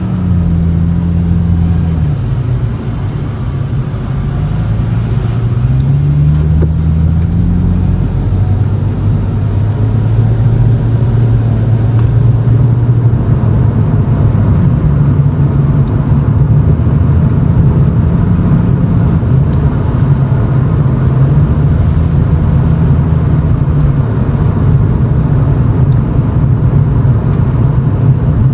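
Exhaust note of a Toyota Chaser GX100's 2.0-litre straight-six through an aftermarket Reinhard bullet muffler (with mid-pipe and silencer), heard inside the cabin while driving at low speed. The engine pitch drops about two seconds in, climbs again from about four to eight seconds in as the car picks up speed, then holds a steady drone.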